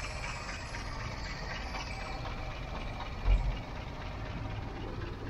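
Ford Model T rail car's four-cylinder side-valve engine idling steadily, with one short low thump about three seconds in.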